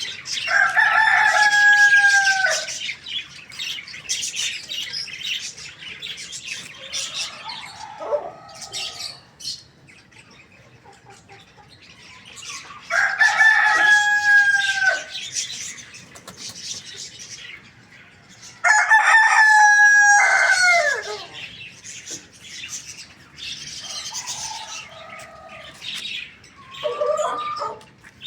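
Rooster crowing three times, each crow a long call of about two seconds: one about a second in, one near the middle and one a few seconds later. Shorter, quieter clucks and chirps come between the crows.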